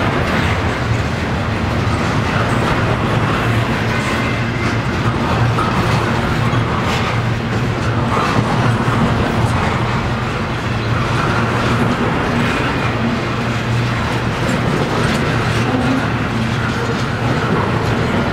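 Double-stack intermodal container well cars rolling slowly past, a steady rumble of steel wheels on rail with scattered clicks as the trucks cross rail joints.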